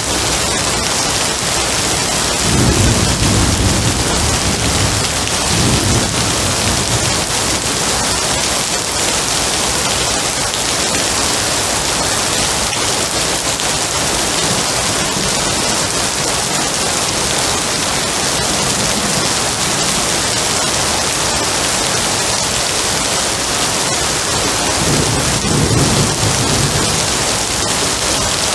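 Steady rain falling, with low rumbles of thunder twice in the first seven seconds and again near the end.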